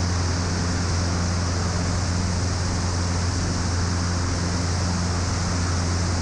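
Piper PA-34 Seneca's twin piston engines droning steadily at climb power, heard inside the cockpit as a deep, even hum with a hiss of airflow and no change in pitch.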